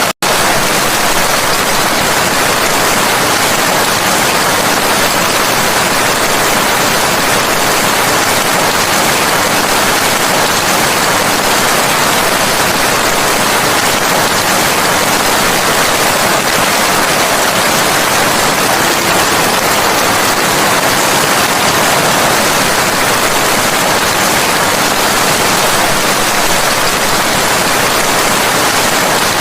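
Steady, dense rainfall, an even hiss with no distinct drops or thunder standing out. The sound cuts out for an instant just after the start, then resumes unchanged.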